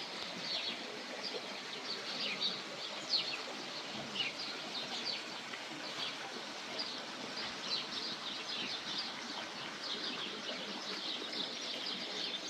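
Many small birds chirping, a dense scatter of short, quick calls over an even background rush.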